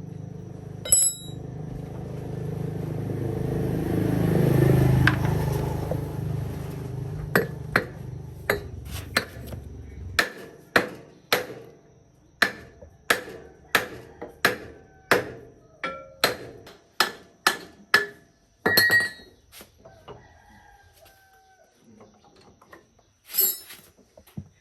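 Hammer striking metal repeatedly with a ringing clank, about one and a half to two blows a second, during tractor repair work. For the first ten seconds a low rumble swells and then stops abruptly, and a rooster crows near the end.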